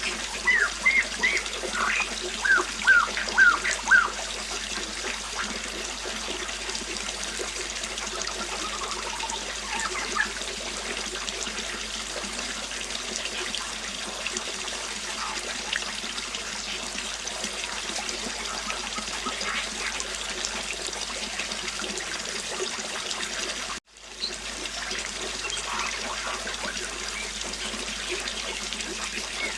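A river flowing steadily, with small birds chirping over it: a quick run of short chirps in the first few seconds, then a few scattered calls. The sound drops out for a split second late on.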